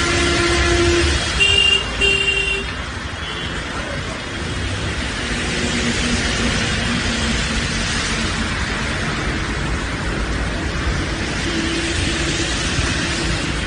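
Street traffic with steady road noise and several vehicle horns honking, including two short blasts about two seconds in.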